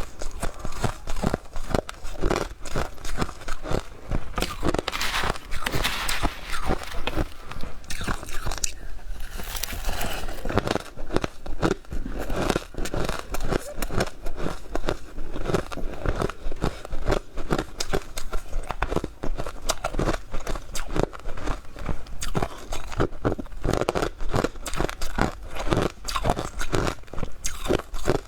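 Close-miked biting and chewing of powdery freezer frost, a dense run of rapid crunches that eases briefly about a third of the way in.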